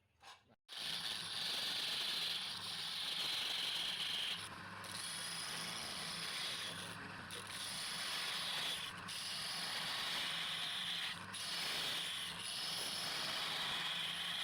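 Continuous abrasive rubbing, like sanding, starting after a short silence about half a second in and broken by brief pauses every two to three seconds.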